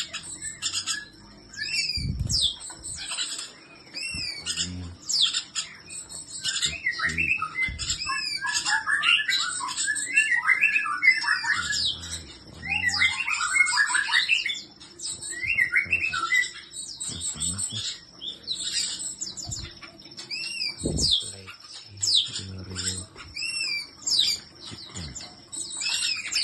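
Several caged songbirds chirping and singing at once: fast warbled phrases mixed with repeated high, sharp chip calls, with a few low thumps here and there.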